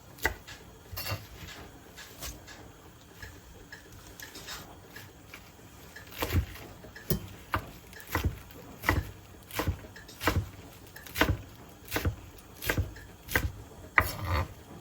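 Knife chopping on a cutting board: a few scattered light knocks at first, then about a dozen steady chops, a little over one a second, from about six seconds in.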